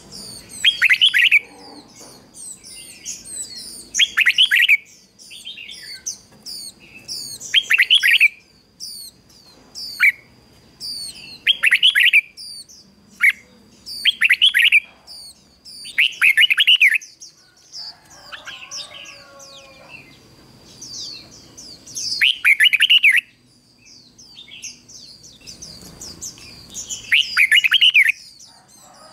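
A decoy red-whiskered bulbul sings loud, short warbled phrases every few seconds, with a longer pause partway through. Denser high chirping and a steady thin high tone run underneath.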